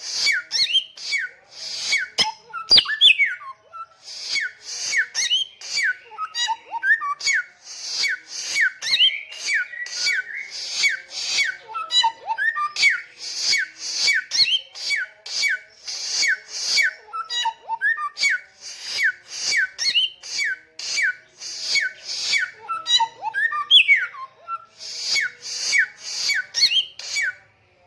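Bare-throated whistler singing a fast, repeated song of short falling whistles, each paired with a harsh hissing note, about two phrases a second. The song pauses briefly twice and stops abruptly near the end.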